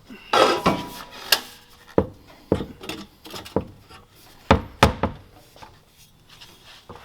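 Metal exhaust pipe sections knocking and scraping as they are forced together by hand: a scrape near the start, then a run of irregular sharp knocks that die away about five seconds in.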